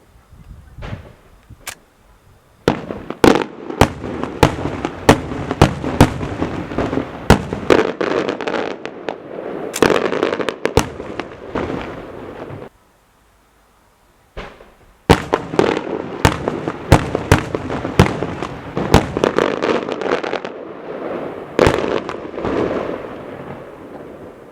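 Fireworks going off in a rapid barrage: many sharp bangs in quick succession over a continuous crackle. About halfway through the sound cuts off abruptly for a second or two, then the bangs start again.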